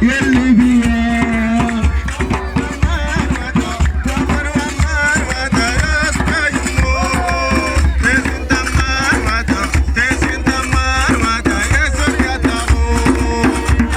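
Hand drums beaten in a fast, steady rhythm, with voices singing a local folk song over them.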